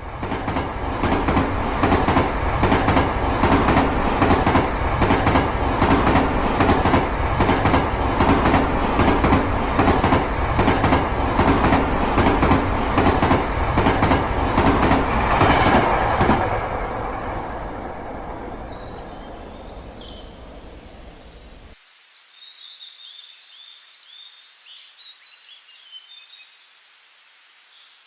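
Plarail toy freight train, two EF65 locomotives hauling fifteen wagons, running on plastic track. It makes a steady motor whir and rattle, with quick regular clicks as the wheels cross the rail joints. It fades away after about sixteen seconds, and high bird chirps follow near the end.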